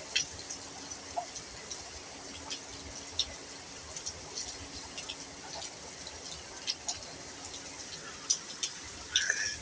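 Rain falling, with irregular drips and splashes over a steady hiss, and a short louder noise just before the end.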